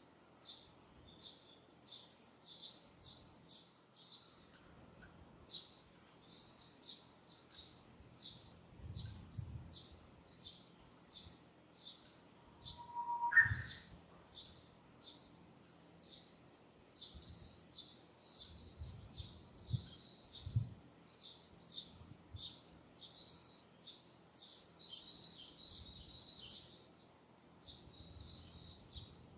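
Distant songbird repeating short, high chirps about once or twice a second. About halfway through there is one louder call that slides upward in pitch. A few soft low rumbles of breeze come and go.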